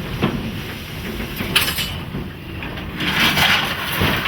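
Steam locomotive at work, with a steady low rumble and a few sharp metallic clanks, and a hiss of steam lasting about a second, about three seconds in.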